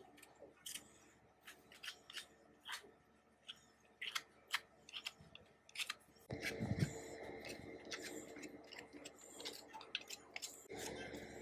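Sharp, irregular clicks and taps of small metal parts and hand tools being handled while an old sewing machine is worked on. About six seconds in, a steadier rasping noise with a faint hum starts, eases off for a moment, then resumes near the end.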